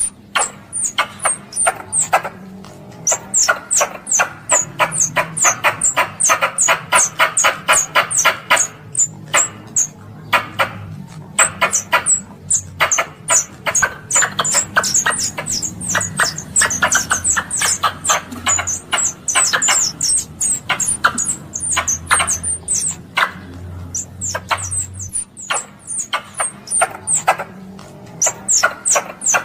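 Squirrel calling: long rapid runs of sharp, high chirps, several a second, broken by brief pauses, over a steady low hum.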